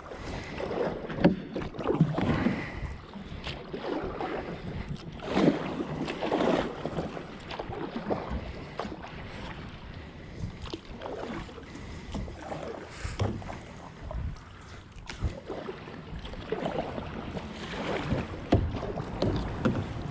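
Water splashing and sloshing irregularly around a kayak during a salmon fight.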